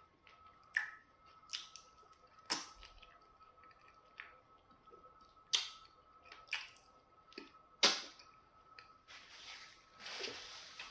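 Close-up mouth sounds of eating pounded yam fufu with okra soup: sharp wet smacks and clicks of chewing at uneven intervals about a second apart. Near the end comes a soft rustle of a paper napkin wiped across the mouth.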